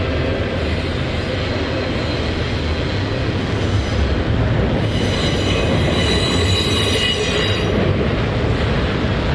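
Freight cars of a CSX intermodal train rolling past, a steady rumble of wheels on rail. Thin high-pitched wheel squeal comes in about five seconds in and fades out about three seconds later.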